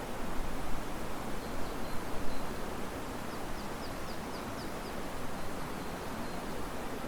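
Steady rush of river water and wind through riverside trees, swelling a little in the first couple of seconds. A small bird calls faintly in the middle: a quick run of about seven short, high chirps.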